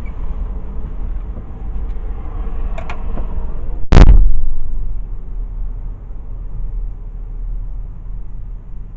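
A car door slams shut about four seconds in. Before and after it there is a steady low car rumble, which sounds more muffled once the door is closed.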